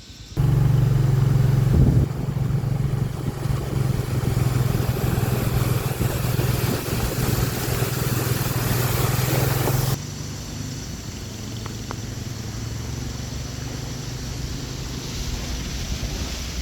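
A small engine running steadily at one speed under a loud rushing noise. The sound drops abruptly to a quieter, steady hum about ten seconds in.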